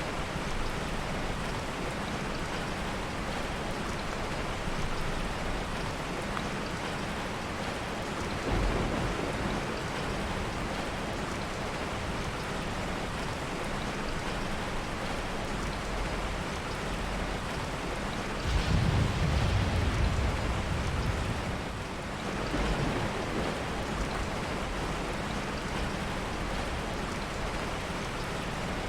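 Heavy rain falling steadily. A short low roll of thunder comes about eight seconds in, and a louder rumble of thunder lasts about three seconds from two-thirds of the way through.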